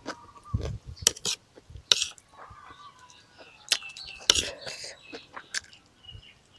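Cutlery clinking against dishes during a meal: scattered sharp clicks, a dozen or so, unevenly spaced.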